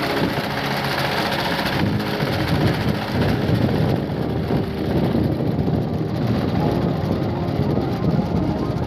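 Homemade mini tractor's engine running steadily, with a rapid low-pitched pulsing.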